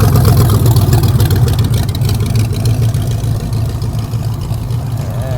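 A classic car's engine running as the car rolls slowly past. The engine note is loudest near the start and eases off gradually.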